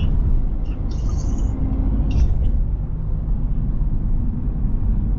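A car driving at road speed: a steady low rumble of tyres and engine, with a few faint brief hisses.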